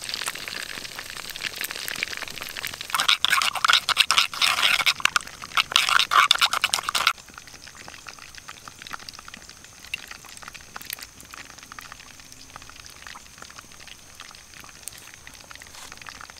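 Chicken pieces deep-frying in a pan of hot oil: a dense sizzle full of crackles that grows louder and fiercer about three seconds in, then cuts off suddenly about seven seconds in. A much quieter stretch of faint scattered ticks follows.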